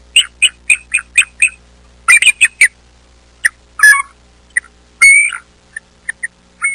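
A bird calling: a quick run of short calls, about four a second, then a tight cluster of calls and a few scattered ones, with one longer call about five seconds in.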